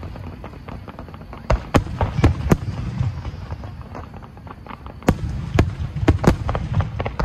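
Aerial firework shells bursting in quick succession over a steady low rumble. There are clusters of sharp booms about a second and a half in and again around five to six seconds in, with many smaller cracks between them.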